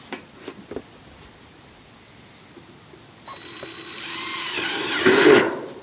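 Power drill driving a roofing screw into a metal roof panel: a motor whine starts about three seconds in, builds as the screw runs down, and stops just before the end. A few light knocks come first.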